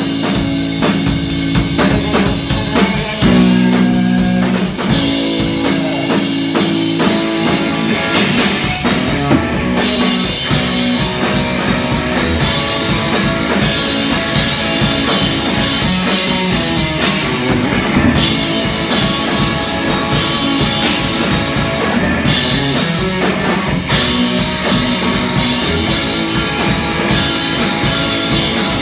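Rock band playing live: drum kit and electric guitar with a steady beat.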